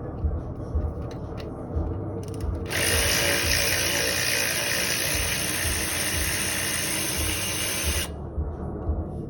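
A power tool runs steadily for about five seconds, starting about three seconds in, amid light metallic clicks of tools being handled on the engine.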